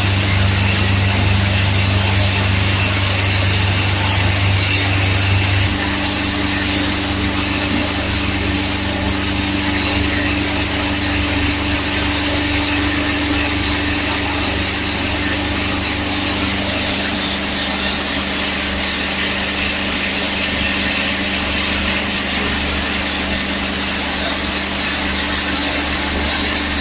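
Automatic PET bottle washing machine running: a steady motor hum over a continuous hiss. The hum changes slightly about six seconds in and again around seventeen seconds.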